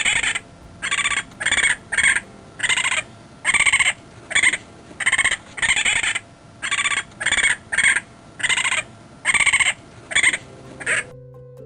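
An animal calling over and over: about twenty short pitched calls in quick succession, each under half a second long.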